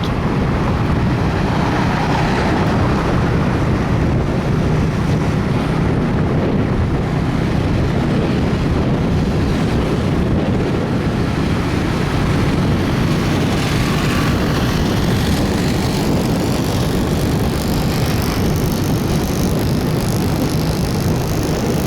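Motorbike riding along at a steady pace: a constant engine drone under heavy wind and road rush on the microphone.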